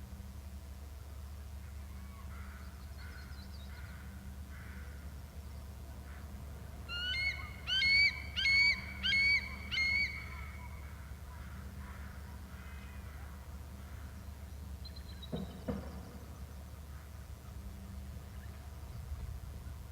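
A bird calling: a few soft notes, then a loud run of five or six sharp upslurred notes over about three seconds. A short low thump follows later.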